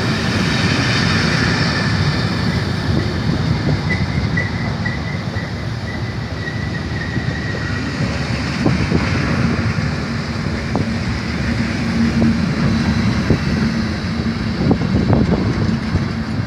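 A train hauled by Class 73 locomotives running past on the rails with a steady rumble and hum. A thin wheel squeal comes in about four seconds in and lasts a few seconds, and wheels click over rail joints in the second half.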